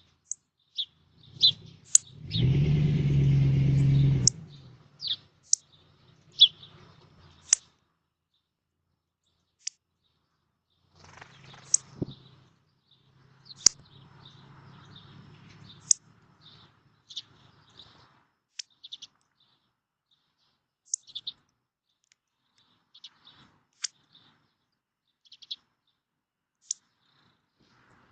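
Small songbirds giving short, sharp, high chirps, one or two at a time, scattered through. A loud low hum lasts about two seconds near the start, and a fainter one returns around the middle.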